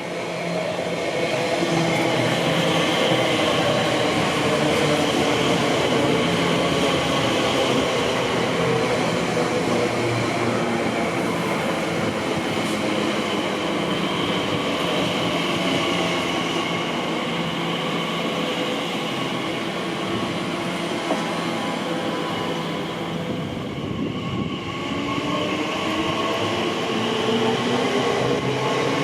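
A train running through the station with a steady rumble and the hum of its motors in several tones. The sound dips briefly about three-quarters of the way through, then a rising whine comes in near the end.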